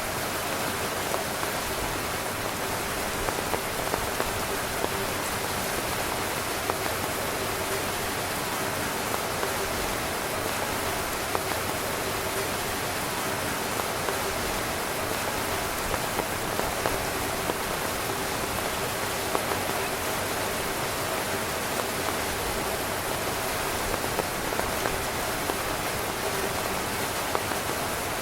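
Heavy rain falling steadily on a tent: an even hiss with many small, sharp drop taps scattered through it.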